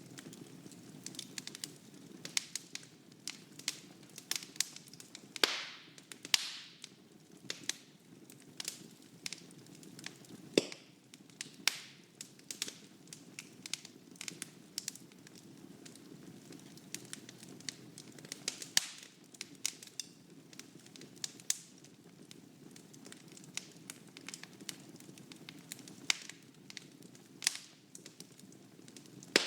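Wood fire burning in a fireplace: a steady low rush of flame with frequent sharp crackles and pops, a few of them louder.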